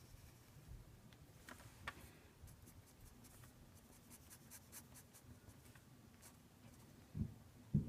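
Faint scratching strokes of a pen writing and drawing, with two soft low thumps near the end.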